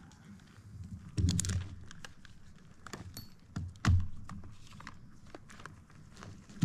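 A few sharp knocks and crunches, the loudest about a second in and again about four seconds in, with light rustling in between.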